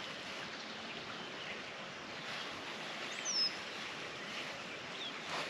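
Steady outdoor background hiss with a bird calling: one short, high whistle sliding downward about three seconds in, and a fainter chirp near the end.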